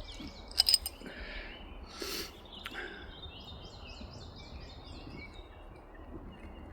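Small birds chirping over and over in the background, with a few sharp clicks a little under a second in and two short hisses soon after.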